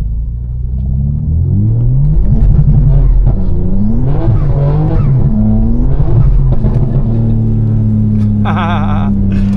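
BMW M4's tuned twin-turbo inline-six pulling hard at full throttle, its pitch climbing in several runs broken by quick upshifts, then settling into a steady drone. The driver thinks there was some wheel hop during the launch.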